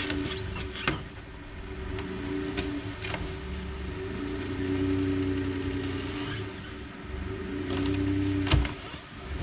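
Pickup truck engine running and revving up in swells as it pushes a dead truck along, with a sharp knock about a second in and a louder clunk near the end.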